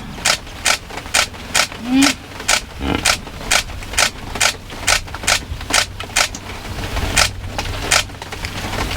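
Hippos calling: a long run of short, wheezy honks, about two to three a second, with a few deeper grunts among them.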